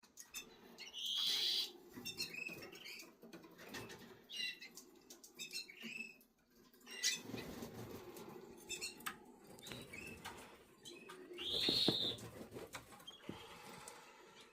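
Eleven-day-old canary chicks making short, high cheeps amid rustling and fluttering, with two louder high calls, one about a second in and one near the end.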